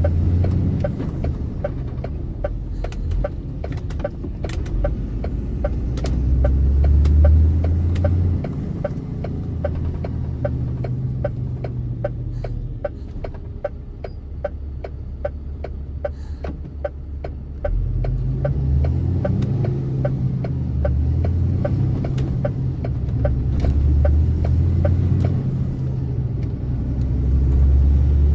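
Truck engine running while driving, with a deep note that rises and falls as it moves, and a regular ticking through most of it.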